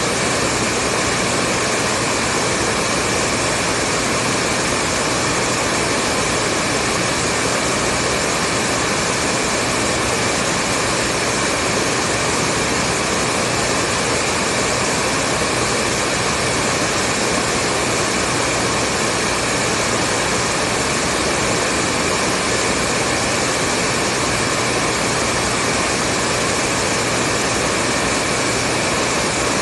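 Hair dryer running steadily: a constant rushing fan-and-air noise with a faint low hum underneath and no change in speed.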